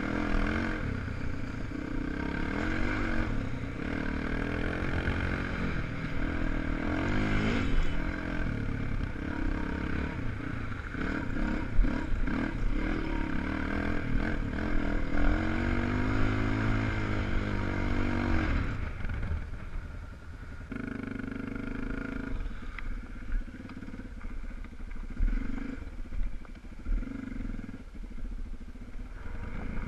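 250 cc enduro motorcycle engines revving up and down as they are ridden hard on a dirt track. The engines are loud and close for about the first 19 seconds, then fainter, with short bursts of revving.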